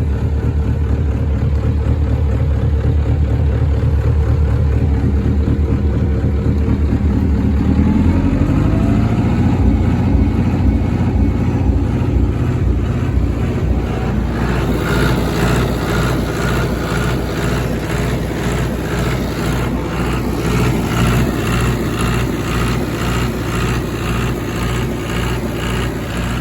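International 585 tractor's diesel engine running at a steady idle, then revved up about eight seconds in and held at higher revs. About halfway through, the note turns harsher with a fast, even pulsing.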